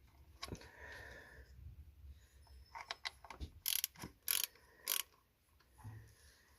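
Ratchet wrench clicking in short strokes as bolts are loosened, with three louder ratcheting bursts about half a second apart past the middle.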